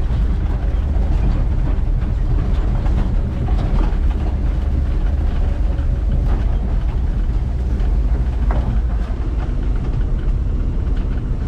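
Case IH 2388 combine running steadily, heard from inside its cab: a heavy, unbroken low engine rumble with rattling over it.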